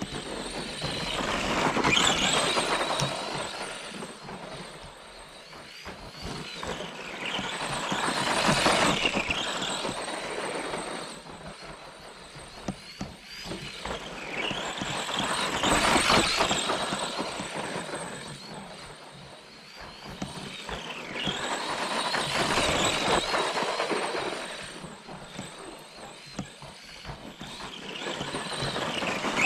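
Brushed electric motor and drivetrain of an ARRMA Granite 4X2 Boost RC monster truck whining as it drives. The sound swells and fades five times, about every six to seven seconds, as the truck speeds up or passes and then pulls away.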